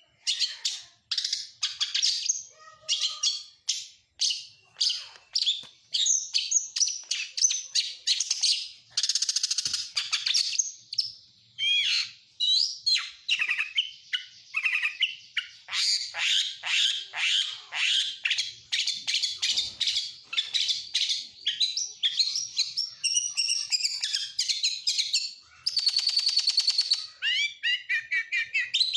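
Oriental magpie-robin (kacer) singing a fast, continuous song of varied whistles, chirps and trills, filled with imitations of other birds' calls. Buzzy rattles break in about nine seconds in and again near the end.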